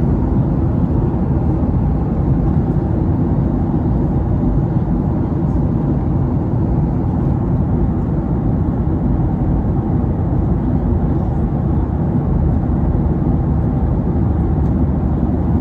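Steady drone of an airplane cabin in flight, the engine and airflow noise heard from inside the cabin.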